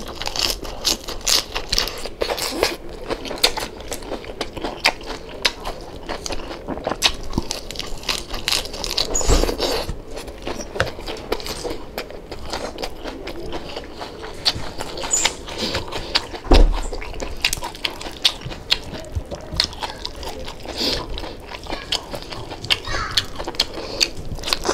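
Close-miked chewing and crunching of deep-fried crispy pata (pork knuckle) skin: many quick, sharp crackles from the crisp skin. Two dull thumps, about nine and sixteen seconds in.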